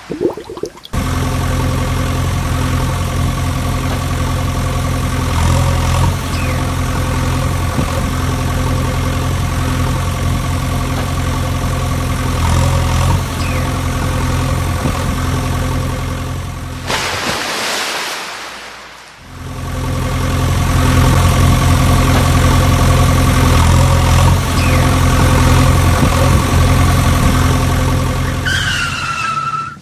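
Vehicle engine idling steadily at an even pitch. It breaks off about seventeen seconds in for a couple of seconds of fading hiss, then idles again. A short falling tone comes just before the end.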